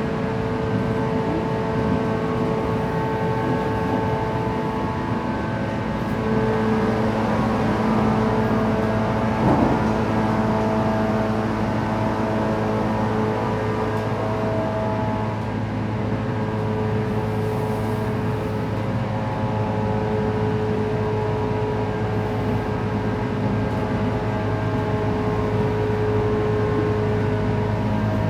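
JR West 117 series electric train running at about its 110 km/h top speed, heard from inside the car: a steady whine of several held tones over continuous wheel-on-rail rumble, with one brief knock about nine and a half seconds in.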